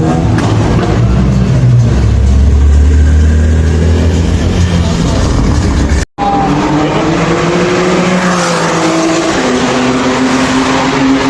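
Loud exhaust of performance vehicles running and revving, with a deep steady engine note in the first part. A sudden cut about six seconds in leads to another engine whose pitch rises and falls, then holds steady.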